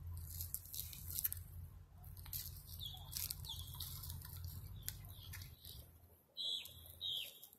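Birds chirping: short, high calls in small clusters, over a low steady hum that stops about six seconds in.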